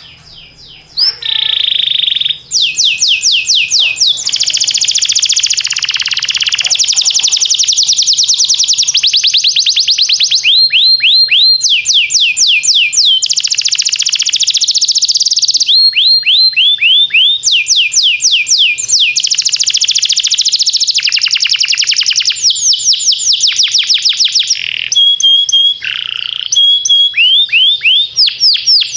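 Domestic canary singing a long, loud song of fast trills: runs of rapidly repeated notes, switching to a new phrase every second or two, starting about a second in.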